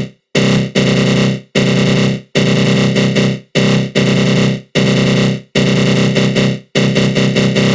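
Synthesized attack growl from the GMS synth with a flanger effect: a harsh, fluttering electronic growl. It comes in repeated bursts of about a second, each cut off sharply by a brief gap.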